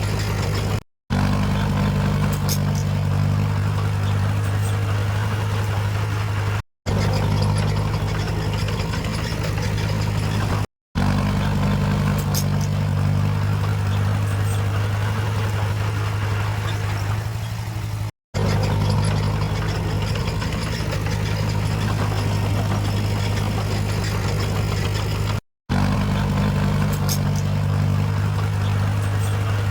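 Heavy earthmoving machine's diesel engine running steadily at a low, even pitch. The sound cuts out for a moment five times.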